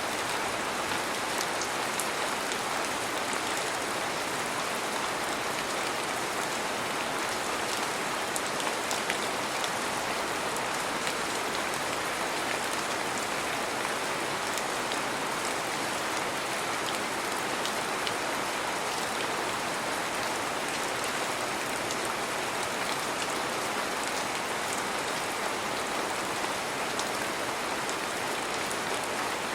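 Heavy rain falling steadily: a continuous even hiss of rain with scattered individual drop ticks.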